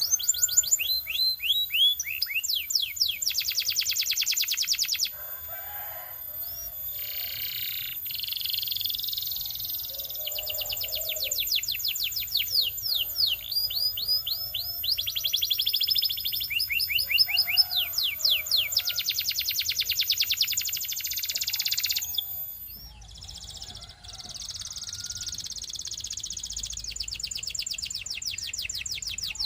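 Belgian canary singing a long song of fast trills and rolling repeated notes, with a short pause about three-quarters of the way through.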